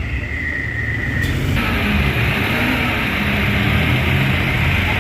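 Dump truck's diesel engine running with a low, uneven rumble. A steady high tone sounds for about the first second, then a hiss sets in.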